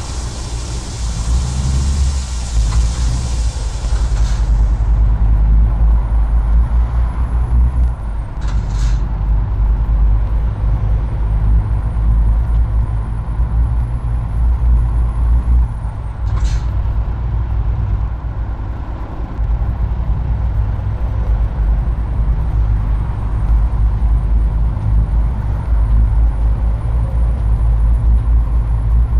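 Heavy truck's diesel engine running with a deep rumble. It opens with a loud air hiss of about four seconds, typical of the air brakes releasing. A faint high whine climbs slowly and falls back twice, each time with a short air hiss.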